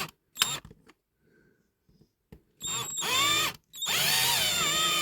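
Small electric drill drilling out a rivet post on a diecast toy car's base: a brief touch of the trigger, then two longer runs from about halfway through, its whine dipping and rising in pitch as the bit bites into the metal.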